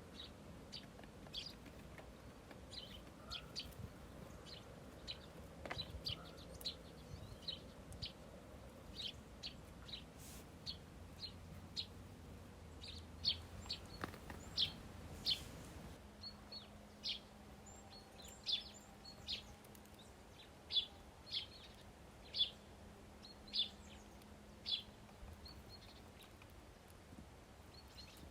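Small birds chirping: short, sharp chirps repeated irregularly, about one or two a second, with louder single chirps in the second half.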